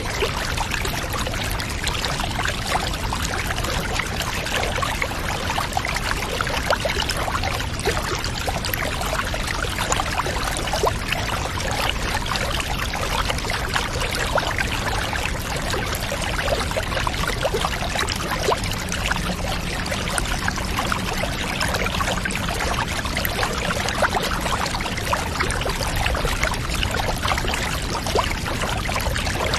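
Water pouring and trickling steadily into a bath, an unbroken wash of sound full of fine splashy crackles.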